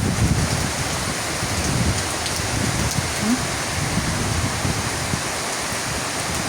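Heavy rain pouring down steadily, with a low rumble of strong wind underneath.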